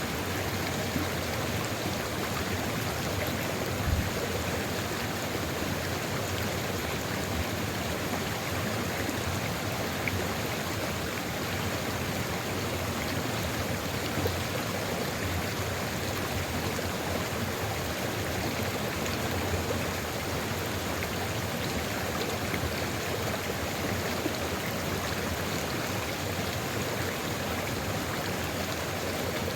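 Sulfur river water flowing steadily in an even rush. There is a brief low thump about four seconds in.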